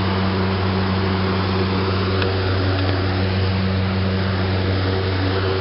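Outdoor central air conditioner unit running steadily: a low hum under a constant fan noise.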